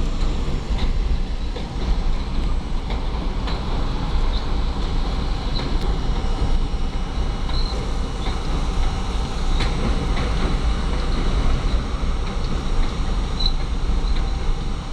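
R32 subway car running along the track: a steady rumble of wheels on rail, with scattered clicks and brief high wheel squeals.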